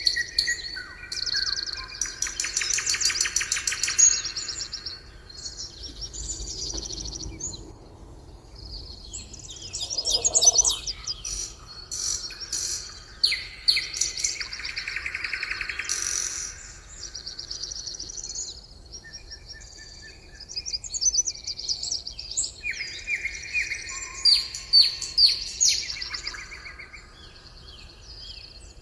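Several songbirds singing and calling together: overlapping chirps and fast trills that come in bouts, with short lulls between them.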